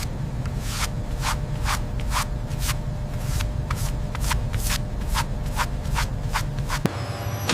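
Rhythmic rubbing strokes, about two a second, each short and even, over a steady low hum.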